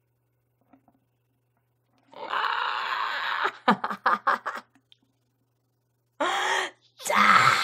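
A woman's wordless, gleeful vocalising: about two seconds in, a long breathy moan, then a few quick bursts of laughter, then two more drawn-out cries near the end.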